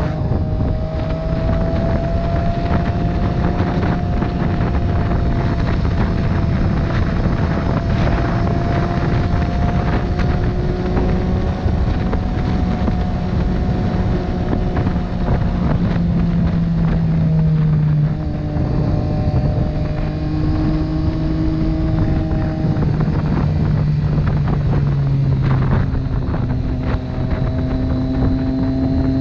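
Motorcycle engine running at road speed under heavy wind rush, its pitch drifting and stepping down and up a few times in the second half as the speed or gear changes.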